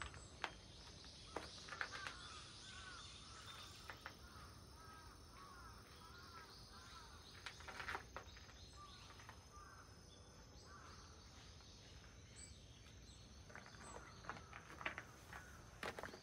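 Faint birds calling, a quick series of short chirps repeating over several seconds, with a few footsteps on gravel near the start, midway and again toward the end.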